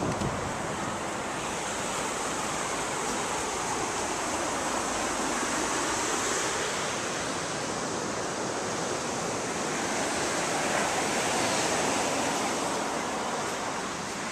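Ocean surf breaking on the beach, a steady rush of waves that swells and eases every few seconds.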